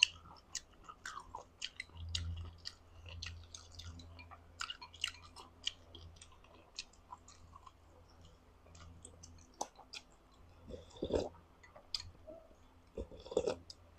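Faint, close-miked chewing of rice noodles with bamboo shoots and chicken: scattered small wet mouth clicks. A few slightly louder mouth sounds come near the end.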